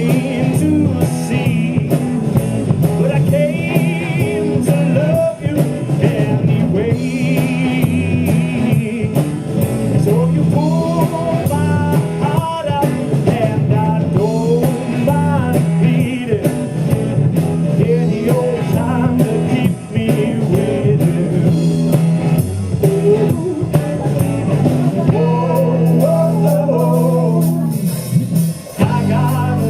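A live rock band playing: electric guitar, bass and drum kit, with a brief break near the end.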